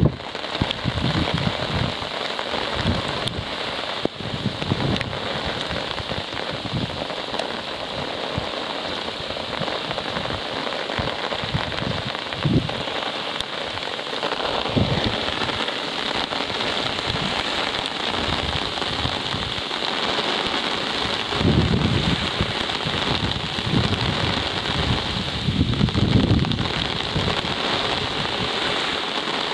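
Steady rain falling and hissing on the surface, with irregular low gusts of wind buffeting the microphone now and then.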